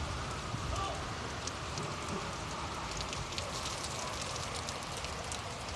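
Steady rain falling, with many small drops ticking throughout.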